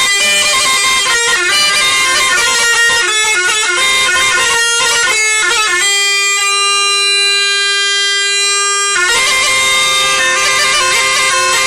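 Bagpipe music: a melody played over a steady drone. Near the middle the melody settles on one long held note for a few seconds before the tune moves on again.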